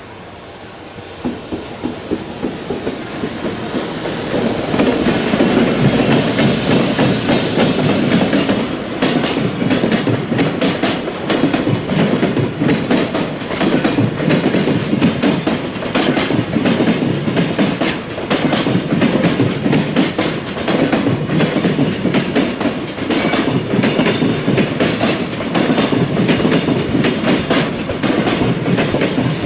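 EF210 electric locomotive and a long container freight train passing, growing louder over the first few seconds as it comes near, then a steady rumble of wagons with a rhythmic clickety-clack of wheels over rail joints.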